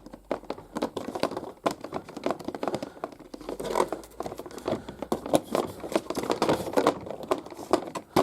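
Hands handling an assembled plastic toy playset: a steady run of light plastic clicks and taps with crinkly rustling.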